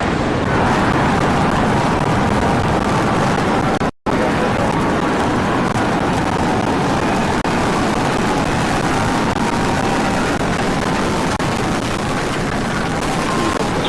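Rocket launch: the loud, steady roar of rocket engines in ascent, broken by a brief dropout about four seconds in.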